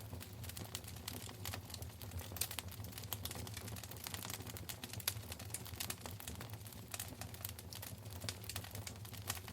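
Fire in a fireplace crackling, with a steady, irregular run of small sharp pops and snaps over a low, steady rumble. The sharpest pop comes about five seconds in.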